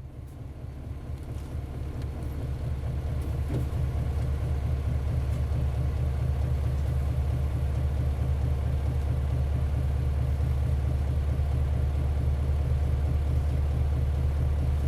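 Isuzu Cubic bus's 8PE1-S V8 diesel engine running steadily with a low, even rumble, fading in over the first few seconds.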